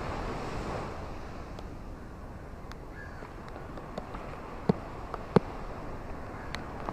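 Sea waves washing on the shore with a low wind rumble on the microphone, a wave surging in the first second. From about four seconds in come a few sharp clicks, the loudest two just under a second apart.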